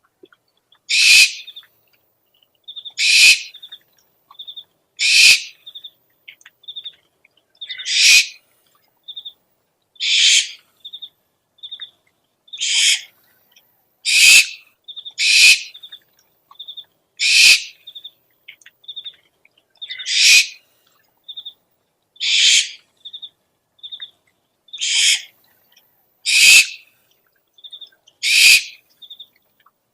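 Owl lure calls: harsh, raspy screeches of about half a second each, repeated roughly every two seconds, with short high pips in between.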